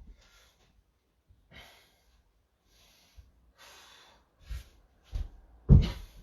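Heavy breathing from someone mid-exercise: short, hard puffs of breath about once a second, the loudest and deepest near the end.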